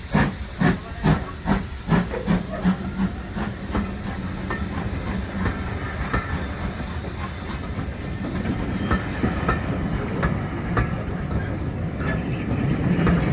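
Steam locomotive chuffing, its exhaust beats coming about two and a half a second and quickening slightly, then fading after about four seconds. A steady rumble of the train rolling with faint wheel clicks follows and grows louder near the end.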